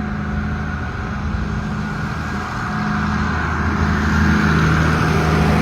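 Motor vehicle engine running steadily, growing a little louder about halfway through.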